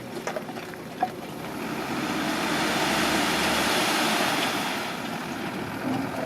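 Bulldozer at work: a broad rushing mechanical noise that swells in the middle and eases off again, with a few scattered clicks and knocks.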